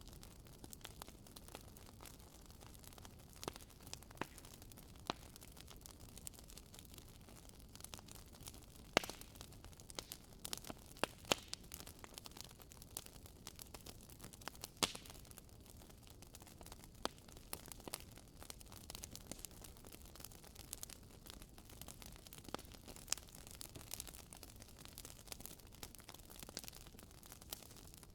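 Wood fire crackling: irregular sharp pops and snaps over a low hiss, with the pops coming thicker and louder in the middle.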